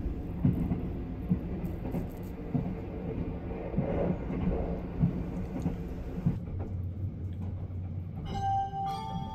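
The Sunrise Izumo sleeper train running, heard from inside the compartment: a steady rumble with irregular knocks. About six seconds in it drops to a quieter low hum, and music begins near the end.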